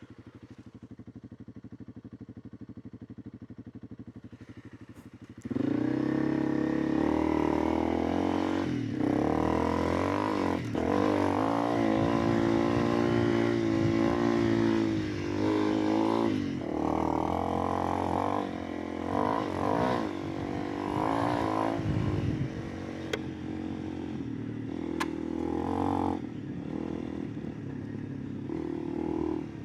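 Honda CRF300 Rally's single-cylinder engine idling quietly, then about five seconds in the motorcycle pulls away under power. The revs rise and fall with several brief dips as it rides on.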